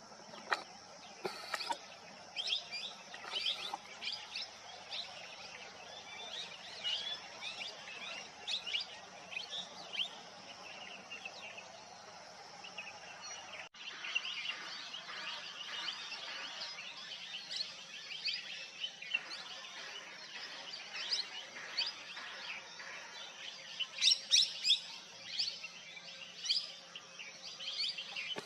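Birds chirping: many short, high calls, more or less continuous over a steady high hiss, with a louder cluster of chirps near the end and a sudden brief break about halfway through.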